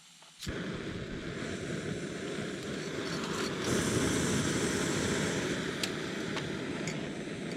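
Gas camp stove burner lit with a sharp click, then burning with a steady loud rush, with a few light ticks near the end.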